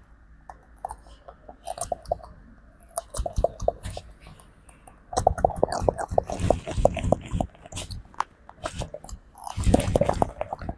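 Monkey grooming a person at close range: rapid, sharp clicks and chewing-like smacks, louder in two spells about five and nine and a half seconds in.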